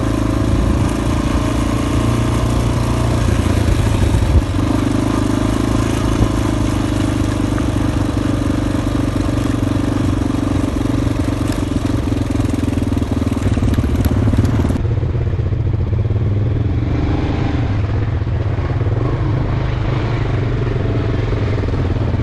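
Motorcycle engine running steadily. About fifteen seconds in the sound abruptly turns duller, with the high end dropping away.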